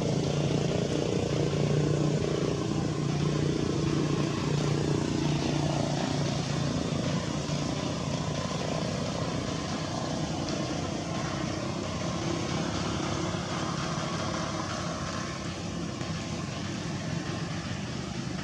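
An engine running steadily with a low, even hum, a little louder in the first few seconds and easing slightly after.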